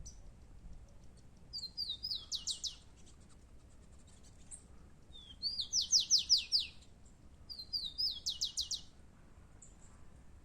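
Rufous-collared sparrow singing its song three times: each a couple of slurred whistles followed by a quick trill of falling notes, the middle song the loudest.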